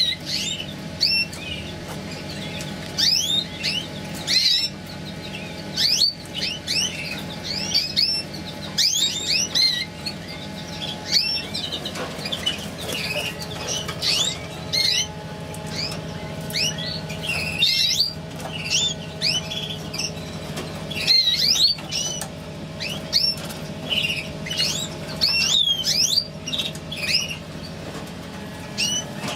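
Mosaic canaries giving short, quick chirping calls again and again, in scattered bursts, over a steady low hum.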